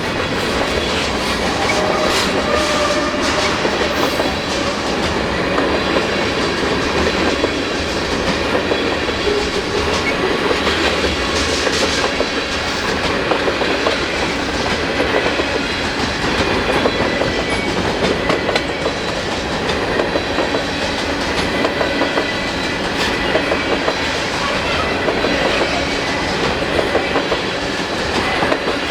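Freight train rolling past, a steady rumble with the clatter of its cars' wheels on the rails.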